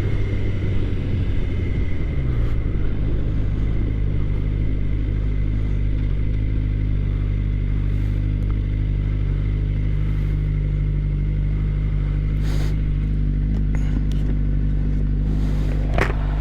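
2013 Suzuki GSX-R 600's inline-four engine idling steadily, its revs settling down over the first two seconds or so.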